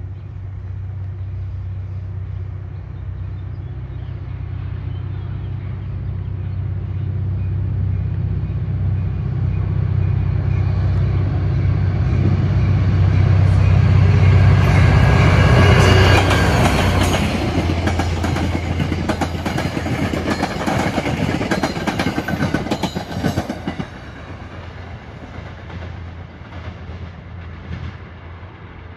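Metro-North F40PH-3C diesel locomotive approaching and passing; its engine is a steady low drone that grows louder until it goes by about sixteen seconds in. The coaches follow with rapid clicking of wheels over rail joints, which fades after about twenty-four seconds.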